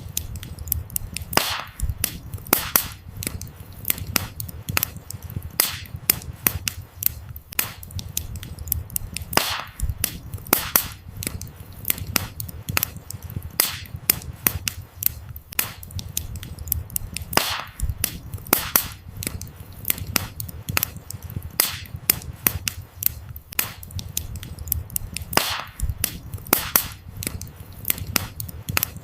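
Wood fire burning, with sharp irregular crackles and pops of firewood several times a second over a low steady rumble of the flames.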